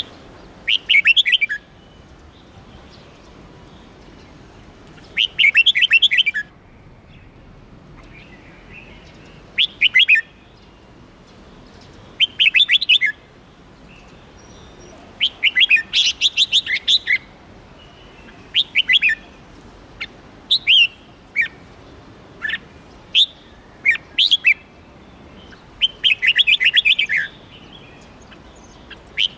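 Red-whiskered bulbul singing: bright, warbled song phrases of about a second each, repeated every few seconds, with shorter single notes in between.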